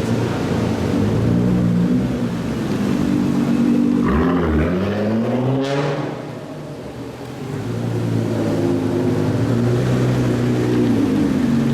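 Supercar engines running as the cars pull away. About four seconds in, one revs with a rising pitch that cuts off sharply, the sound dips briefly, then steady engine sound returns.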